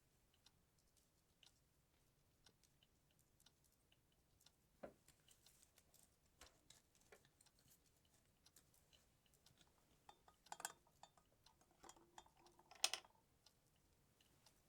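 Faint, sparse clicks and light taps of small objects being handled. About ten to thirteen seconds in come a few louder knocks, the loudest with a brief ringing tone.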